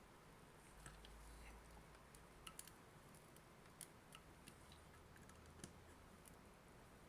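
Near silence with faint, irregular clicks and small ticks, about a dozen, from a tool working at the tightly sealed plastic case of a Nintendo Switch AC adapter.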